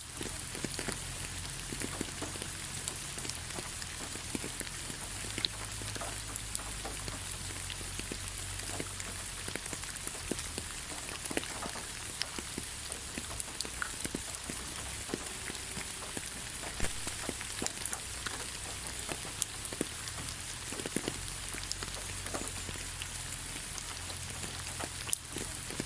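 Steady rain falling in a forest: a continuous hiss with many separate drops ticking irregularly on leaves and surfaces.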